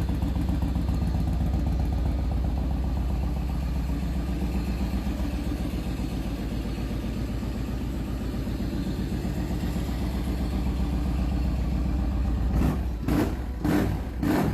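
Yamaha Raider's large V-twin engine idling steadily with an even low pulse, then the throttle blipped a few times in quick succession near the end.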